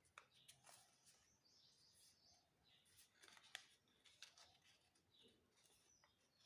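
Faint rustling and light clicks of paper being handled and creased, folding an origami flapping bird.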